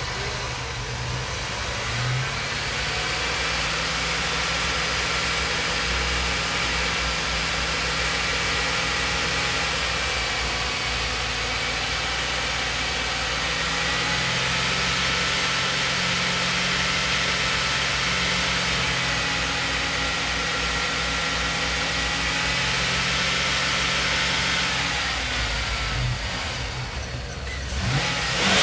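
2001 GMC Yukon Denali's 6.0-litre V8 running steadily. Its speed rises slightly about two seconds in and drops back near the end.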